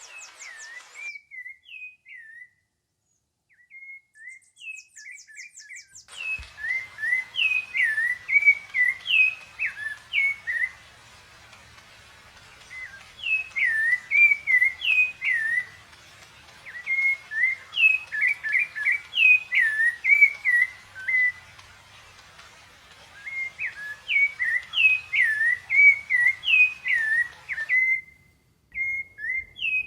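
A songbird singing phrases of quick, clear whistled notes that swoop up and down, each phrase lasting a few seconds with short pauses between, over a faint steady hiss.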